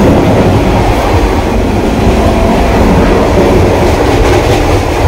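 Vande Bharat Express electric multiple-unit train running at speed, heard from inside the coach as a loud, steady, deep rumble.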